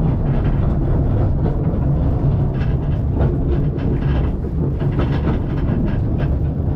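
Narrow-gauge steam railway carriage rolling along the track, heard from inside: a steady low rumble of wheels on rail with irregular clicks and rattles.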